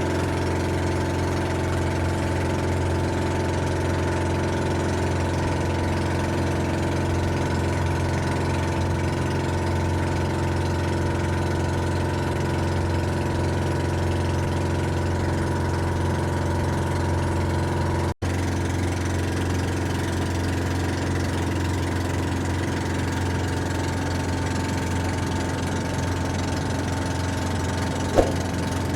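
Steady engine hum at an even speed, with a brief dropout about eighteen seconds in.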